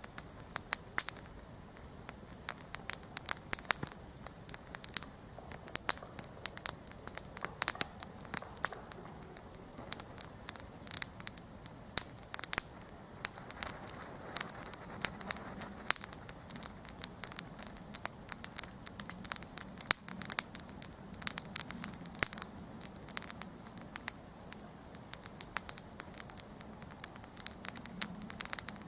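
Wood campfire crackling: dense, irregular sharp pops and snaps over a steady low hiss of burning, with a faint low rumble of flame swelling in the second half.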